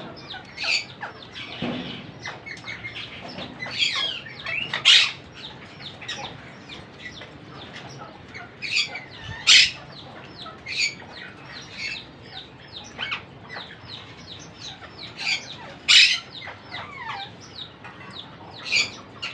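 Monk parakeets calling while parrot chicks are fed: a steady run of short, high chirps, broken by loud harsh squawks about five seconds in, near the middle and about sixteen seconds in.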